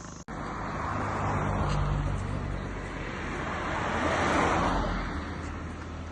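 A motor vehicle's engine humming steadily, with road noise swelling twice, the second time the loudest.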